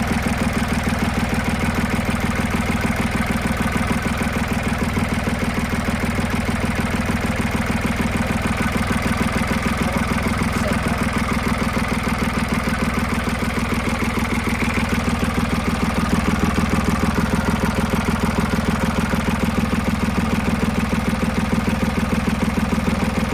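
Boat engine idling steadily with an even, rapid beat, running just after its water pump was repaired and refitted while it is checked for pumping water through.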